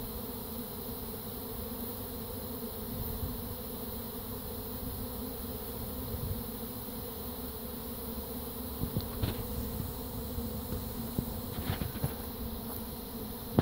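Honey bee swarm in flight: the steady hum of a mass of bees that have poured out of their hive. A few faint ticks come about nine and twelve seconds in.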